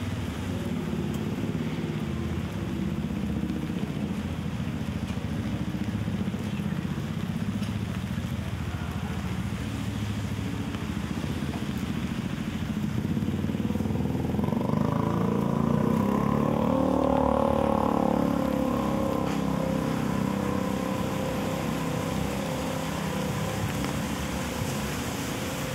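Motor vehicle engines running in street traffic as a steady low rumble. One vehicle comes close about halfway through, getting louder for a few seconds, then fades.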